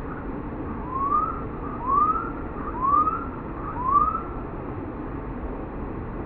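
A bird calling four times, about a second apart, each a short whistled note that slides upward, over a steady rushing background noise.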